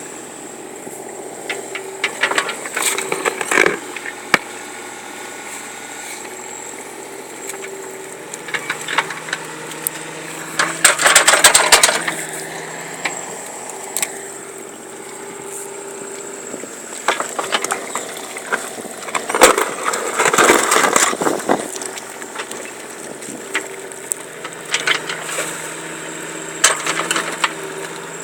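Tracked excavator's engine running steadily while its bucket digs, with bouts of scraping and crunching through soil and stones about three seconds in, around eleven seconds and around twenty seconds, the last two the loudest.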